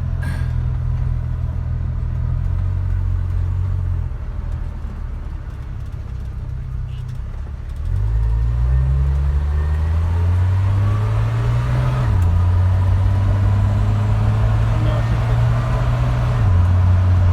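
1978 Dodge D100 pickup's engine running on the road. About four seconds in it eases off; about eight seconds in it picks up and climbs in pitch, then drops sharply about twelve seconds in and again near the end as the 3-speed automatic upshifts. The shifts are smooth, the sign of a transmission in good order.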